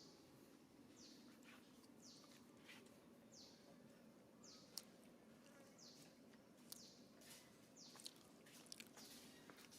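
Faint bird chirps, each a quick high note falling in pitch, repeated about once a second, with a few sharp clicks between them.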